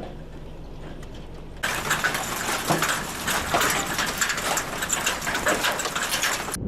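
Hailstones pelting a hard surface in a dense, rapid clatter of sharp impacts, starting about a second and a half in after a quieter low rumble.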